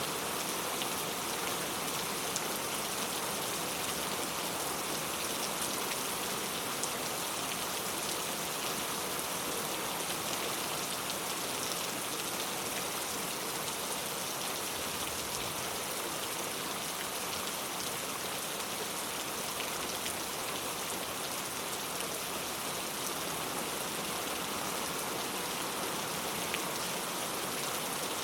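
Heavy rain falling steadily, a dense even hiss of drops on surfaces with faint individual drop ticks.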